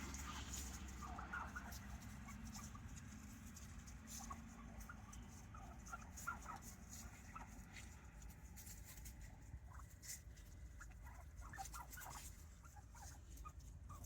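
A flock of turkeys feeding and giving faint, scattered short peeps and clucks, with light clicks and taps among them.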